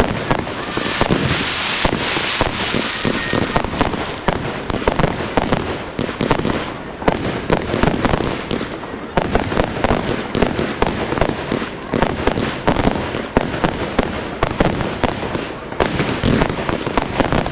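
Fireworks display: a rapid, continuous run of bangs and crackles, many overlapping, with a brief spell of hissing in the first few seconds.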